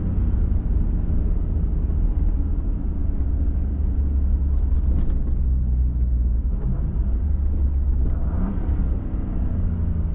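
Pickup truck driving, heard from inside the cab: a steady low rumble of engine and tyres on the road, with the engine pitch briefly rising near the end.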